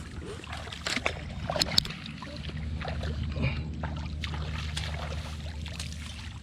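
A small engine running steadily with a low hum, with water trickling and a few sharp knocks about a second in.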